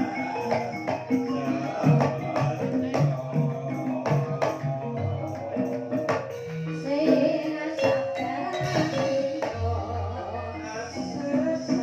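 Banyumasan gamelan ensemble playing a gending in the ebeg style: struck metal keyed instruments ringing in a steady interlocking rhythm over drumming, with low repeated notes about two thirds of the way in.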